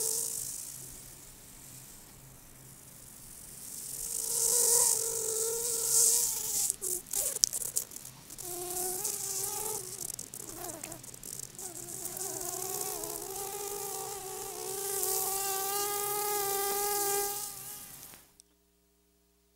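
A buzzing hum with a wavering pitch that swells and fades several times, then cuts off suddenly near the end.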